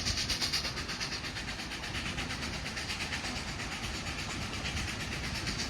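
Narrow-gauge steam train running along the track, with a fast, even rhythmic beat over a steady hiss.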